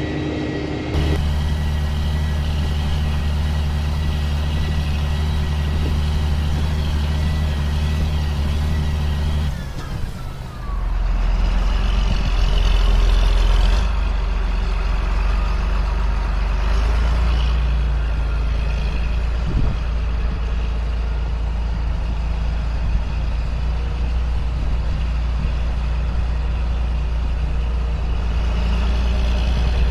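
2005 John Deere self-propelled sprayer running steadily in the field, its engine a constant low hum. About ten seconds in the sound dips briefly, then settles at a lower pitch and runs on steadily.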